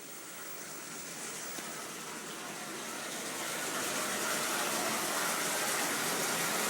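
Rushing, gushing water, a steady hiss that grows gradually louder.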